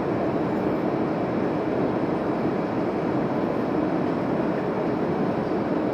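Steady cabin noise of an Airbus A321neo in flight, heard at the window seat: an even rush of airflow and engine noise with no changes.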